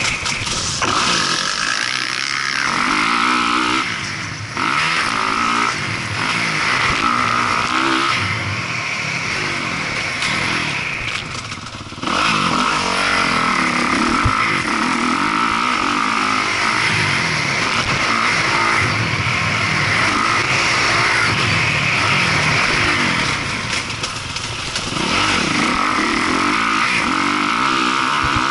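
Motocross dirt bike engine being ridden hard, its pitch rising and dropping again and again as the rider works the throttle and gears.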